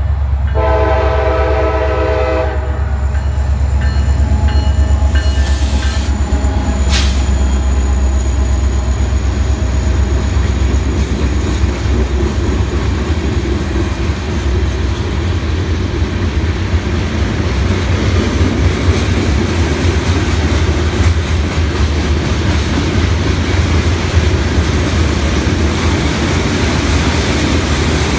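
EMD SD40-3 diesel locomotive's multi-chime air horn sounding a blast for the grade crossing, ending about three seconds in. Then a freight train of loaded rock hopper cars rolls past with a steady heavy rumble and wheel clatter on the rails.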